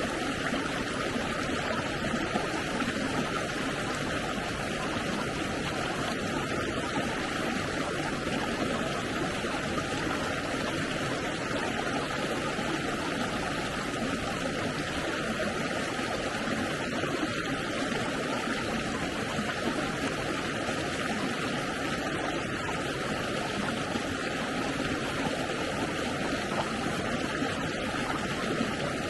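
Stream water flowing, a steady rushing with no breaks.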